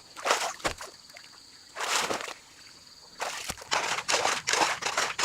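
Water splashing and sloshing in irregular bursts, with a run of repeated splashes in the last two seconds.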